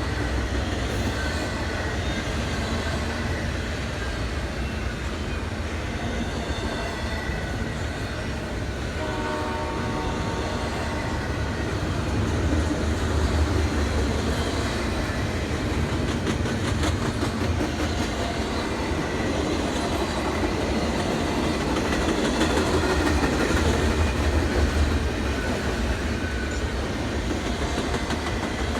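A train passing with a steady low rumble. Its horn sounds for about three seconds, some nine seconds in, and the wheels click over rail joints a little later.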